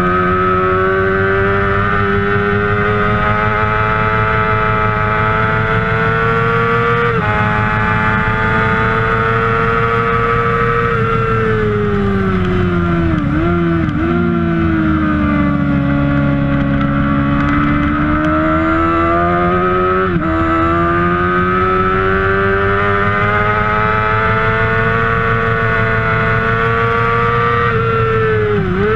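A Kawasaki 600cc racing motorcycle's engine running at high revs under full throttle. Its pitch climbs steadily and drops briefly at each gear change, about 7, 11 and 20 seconds in and again near the end. Around 13 to 14 seconds it dips twice in quick succession, then falls and slowly builds back, as for downshifts under braking into a corner and the drive out.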